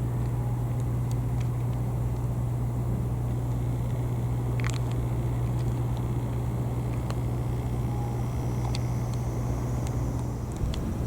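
Steady low drone of a running engine, which fades away near the end, with a few faint clicks over it.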